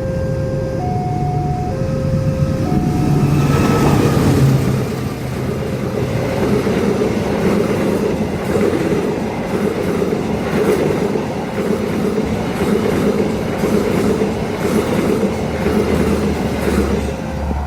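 Level-crossing warning chime alternating between two tones, then a train passes fast: the locomotive comes through loudest about four seconds in, followed by a long run of carriages clattering rhythmically over the rail joints. The crossing chime is heard again near the end as the last cars go by.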